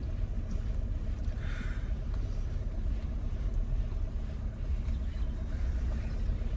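Car engine running, heard from inside the cabin: a steady low rumble.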